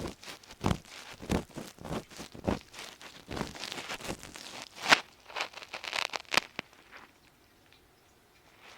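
Ear pick scraping and rubbing inside the ear of a binaural microphone, in rhythmic strokes about one and a half a second. Then comes denser scratching with a sharp click about five seconds in, and it goes quiet near the end.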